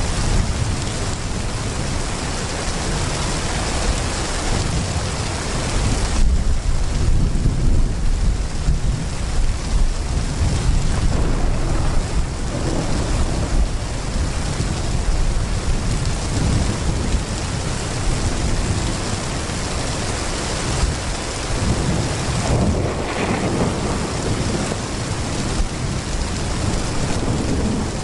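Heavy rain pouring steadily, with low thunder rumbling underneath it; the rumble swells from about six seconds in.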